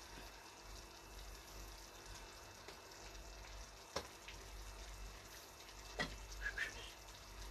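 Pork and vegetables sizzling faintly in a pan. Two sharp clicks, about four and six seconds in, come from handling a plastic soy sauce bottle.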